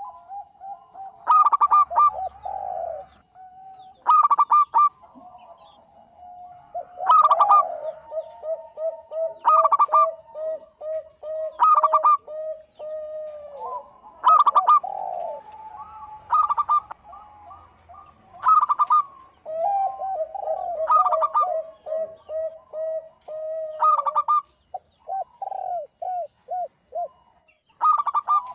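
Zebra doves (perkutut) cooing vigorously. Loud short call phrases repeat every two to three seconds, with runs of quieter, rapid lower coo notes between them.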